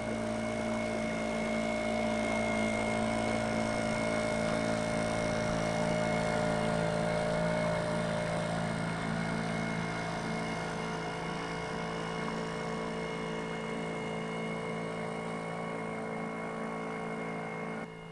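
Great Dane 28 sailboat's inboard engine running steadily as the boat motors along, dropping suddenly in level near the end.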